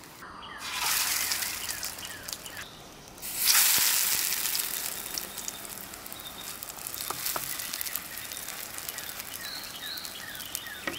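Potato cakes frying in oil in an aluminium mess-kit pan over a camp stove: a steady sizzle full of fine crackles. It swells about half a second in and again, loudest, about three and a half seconds in, then settles.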